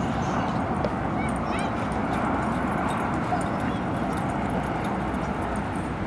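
Dog whimpering with a few faint, short whines about a second in, over a steady background hiss of outdoor noise.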